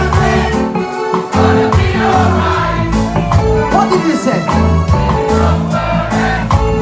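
Live reggae band playing, with a group of voices singing over a steady bass line and beat.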